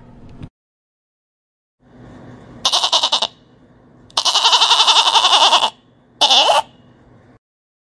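Goat bleating three times: a short bleat, a long wavering bleat, then another short one.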